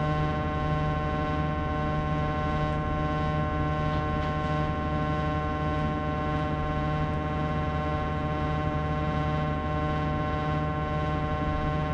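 Sharp AY-J40S-W room air conditioner running with its abnormal noise: a steady, unchanging whine of many tones at once over a low hum. This is the fault noise that a repair of the unit's frequency fault did not cure.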